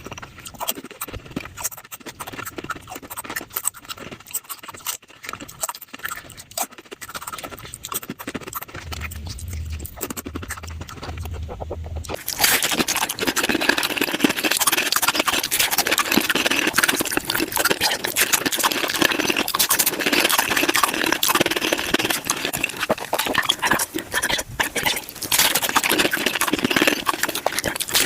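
Taco-eating mouth sounds played at five times speed: a rapid, dense run of crunching and chewing. About twelve seconds in it turns louder and brighter.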